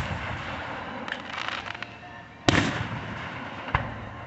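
Fireworks going off: the fading rumble of a burst, a spell of crackling about a second in, then a loud bang about two and a half seconds in and a sharper one near the end, each trailing off in a rolling echo.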